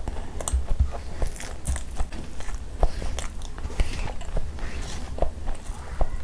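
Close-miked chewing of a mouthful of rice and curry, with irregular wet clicks and smacks from the mouth. Fingers squish and mix rice and gravy on a banana leaf.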